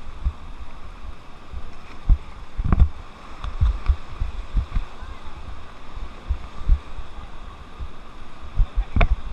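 River water rushing around a raft, with wind buffeting the microphone in irregular low thumps. Two sharper knocks stand out, about three seconds in and near the end.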